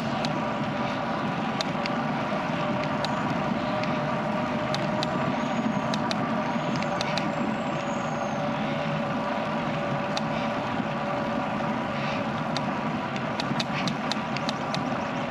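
Bicycle rolling steadily along a road, picked up by a bike-mounted action camera: a continuous hum of tyre and wind noise with a few steady tones in it, scattered light clicks, and a few faint high chirps in the middle.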